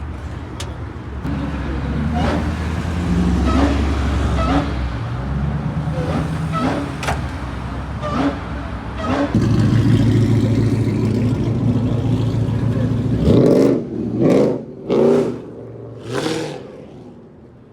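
Car engine running steadily, its pitch stepping up about a second in and again around nine seconds, then several quick revs near the end.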